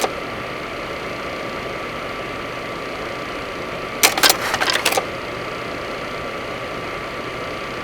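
Steady drone of the Cessna 208 Caravan's Pratt & Whitney PT6A turboprop in the cockpit, with a thin steady whine. A brief crackle of sharp clicks about four seconds in.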